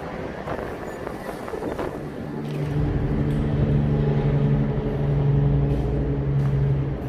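A large truck's diesel engine running close by, coming in about two seconds in as a steady, loud drone with a low rumble over the general traffic noise.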